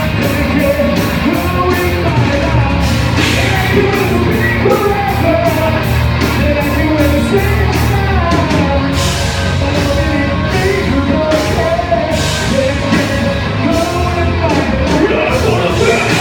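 Live rock band playing loud and steady: drums with quick, evenly repeated cymbal hits under a sung and shouted vocal line.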